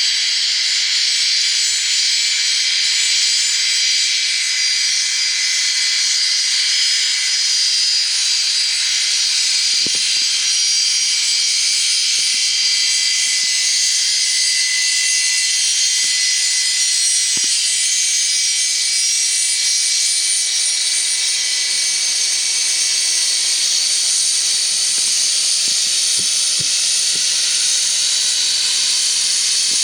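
Jet aircraft engines running at idle nearby: a steady high whine over a loud hiss, with several fixed high tones and little low rumble, holding level throughout.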